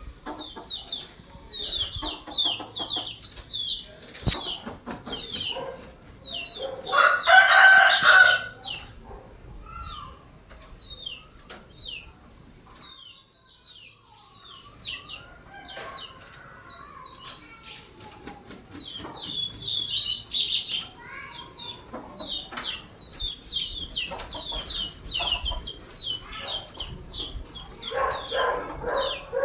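A coleiro-type seedeater singing: long runs of quick, short, high chirping notes. A rooster crows twice in the background, about a quarter of the way in and again past the middle.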